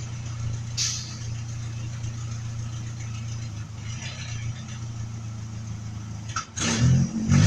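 Truck engine idling steadily with a low, deep hum, its idle no longer set too high, then revving up near the end.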